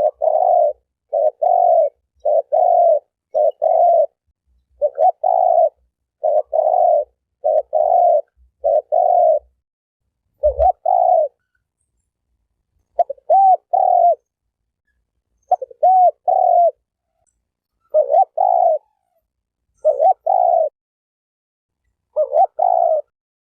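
Spotted dove cooing: short coos in quick pairs and triplets, repeated about once a second, with dead-silent gaps between phrases and a longer pause about halfway through.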